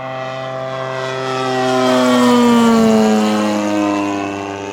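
Zenoah GT80 twin-cylinder gas engine of a large radio-controlled FW-190 model making a flyby. The engine note swells, is loudest about two seconds in, and drops in pitch as the plane passes and moves away. It sounds good.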